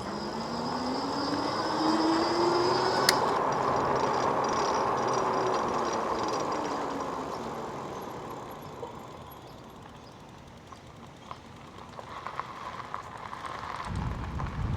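A vehicle's motor and road noise swell up over a few seconds and then fade away, with a whine that rises in pitch and then falls. A single click comes about three seconds in.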